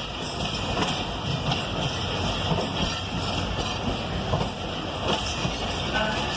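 Passenger train running along the track: a steady rumble and rattle with a few faint clicks.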